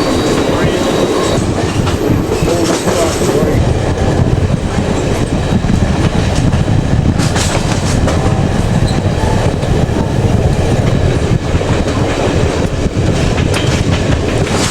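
Moving passenger train heard from inside a car: a steady rumble and rattle of the wheels on the rails.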